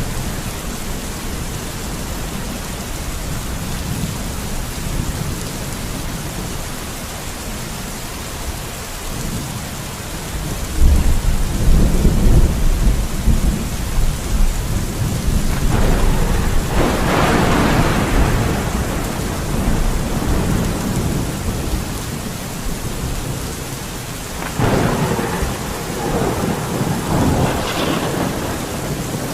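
Steady rain falling, with a louder deep rumbling swell about a third of the way in and two louder, fuller surges around the middle and near the end.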